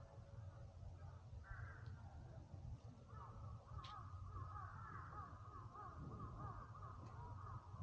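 A crow calling faintly over and over, a quick series of short caws starting about three seconds in, over a steady low background rumble, with one sharp click near the middle.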